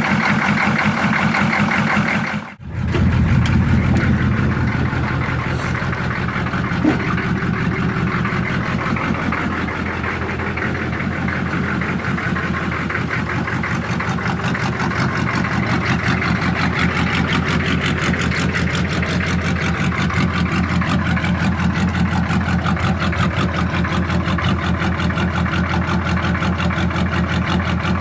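GM 6.5-litre Detroit Diesel V8 idling steadily shortly after a cold start, its firing pulses even and regular. There is a brief dropout about two and a half seconds in.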